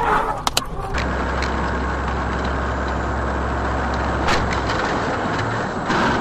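Steady road and engine noise of a moving vehicle with a low drone, heard as from inside the vehicle. A couple of sharp clicks come in the first second and another about four seconds in.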